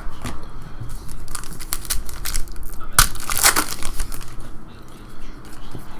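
Trading-card pack wrappers crinkling and tearing, with a sharp crack about three seconds in followed by a burst of crinkling.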